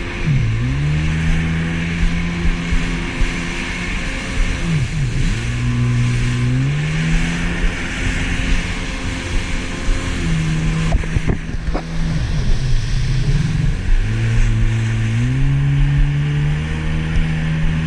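Jet ski engine running, its pitch dropping sharply and climbing back up several times as the throttle is eased off and opened again, with a steady rushing hiss over it.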